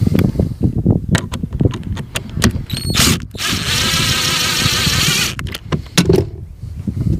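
Knocks, clicks and clatter of parts and tools being handled, with a brief high squeal shortly before the middle and a steady noisy whirring for about two seconds in the middle.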